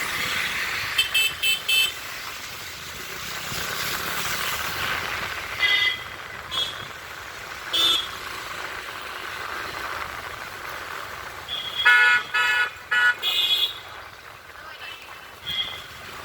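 Road traffic with vehicle horns honking in repeated short toots. There is a burst of quick honks about a second in, a few single honks in the middle, and a rapid flurry of honks near the end. A steady wash of traffic noise runs underneath.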